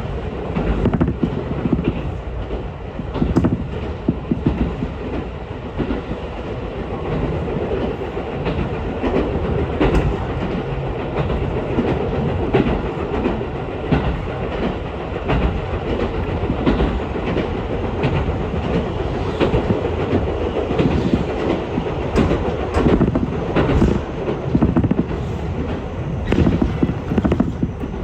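Ichibata Electric Railway electric train running along the track, heard from inside the car: a steady rumble of wheels on rails with repeated clacks as the wheels cross rail joints.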